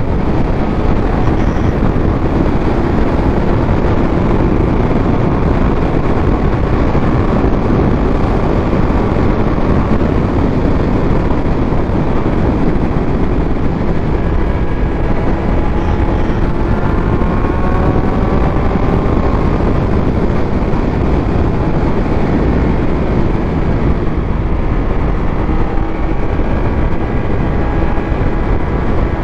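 Heavy wind rush over the rider's microphone with a Triumph Speed Triple 1200 RS inline-three engine running underneath, its note rising in pitch several times as the bike accelerates.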